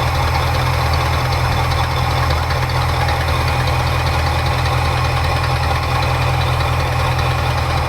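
Ford 351 Windsor 5.8-litre V8 idling steadily in gear on a freshly rebuilt carburetor while the idle is being tuned. The idle is still high, and the engine shakes noticeably.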